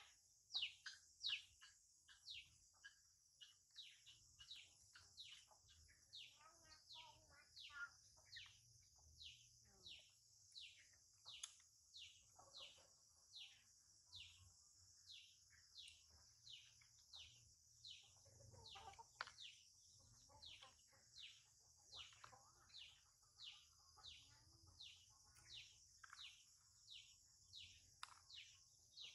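A bird faintly repeating a short call that slides downward in pitch, about one and a half times a second, over a steady high hiss.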